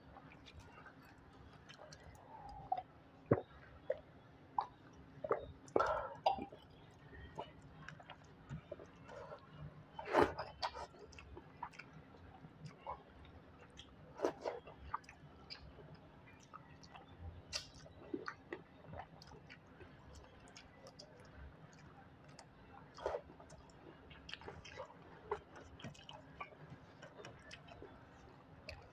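Close-up mouth sounds of a person eating rice and fish curry by hand: chewing and wet smacks in scattered short bursts, with soft sounds of fingers mixing rice on a steel plate.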